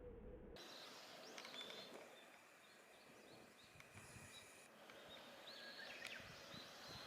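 Faint outdoor ambience with scattered short, high bird chirps and a few quick rising calls about six seconds in. A low hum cuts off just over half a second in.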